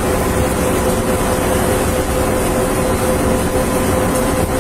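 Steady mechanical rumble and hum with a constant tone, like an idling vehicle or running blower, unchanging throughout.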